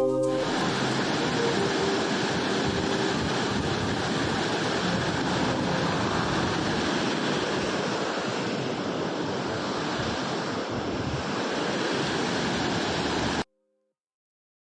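Steady rushing of a waterfall, an even roar of falling water that cuts off abruptly near the end.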